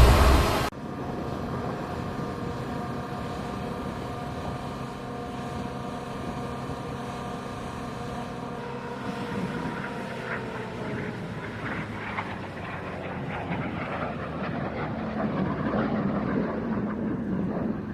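Turbofan jet engines of a Boeing C-17 Globemaster III running with a steady whine over a rushing noise. The whine's pitch sags slightly partway through, and the sound grows rougher and a little louder towards the end. A music bed cuts off just after the start.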